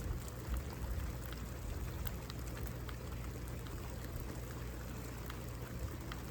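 Steady rain falling, with many small sharp ticks of individual drops landing close by.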